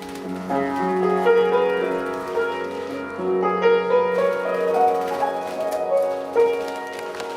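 Background piano music, slow chords with a melody over them.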